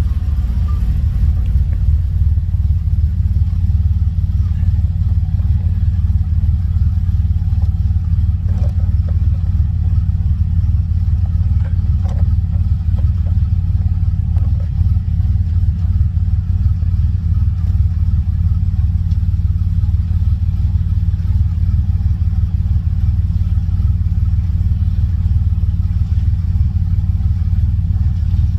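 TVR Tuscan Speed Six 4.0-litre straight-six idling steadily after a cold start, its first start in about six months. A few faint clicks sound near the middle.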